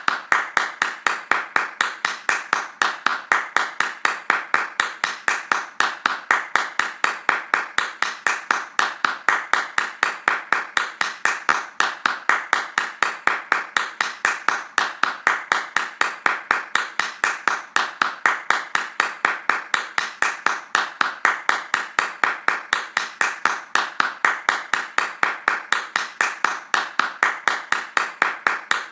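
Hands clapping fast in a steady, even rhythm, each clap a sharp crack.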